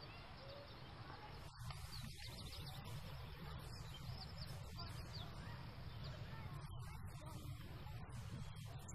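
Quiet ambience with a steady low rumble and faint bird chirps, short rising chirps scattered mostly through the first half.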